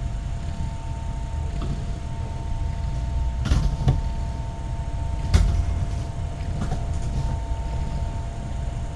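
Steady low room noise with two faint steady tones, broken by a few short knocks: two close together about three and a half seconds in and a sharper one at about five and a half seconds.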